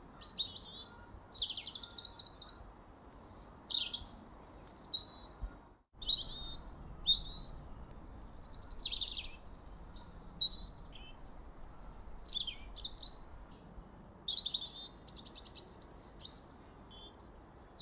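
Several small birds chirping and singing over one another: quick high chirps, trills and sliding notes, over a faint steady background hiss. The sound cuts out for an instant about six seconds in.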